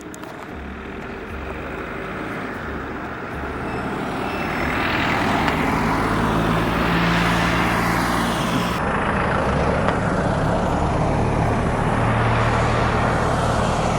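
RC airplane in flight: a steady rushing noise of motor, propeller and wind that builds over the first few seconds, then holds.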